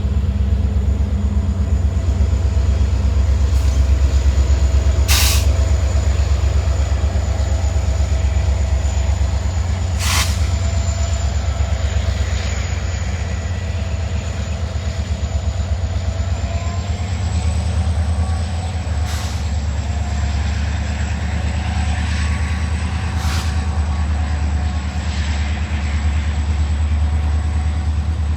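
Norfolk Southern freight train rolling past with a steady low rumble, broken by a few sharp clanks.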